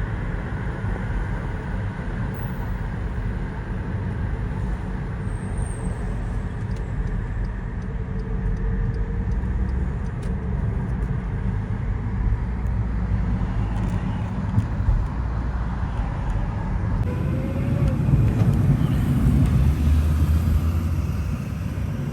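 Road and engine noise of a moving car, heard from inside: a steady low rumble that grows louder for a few seconds near the end.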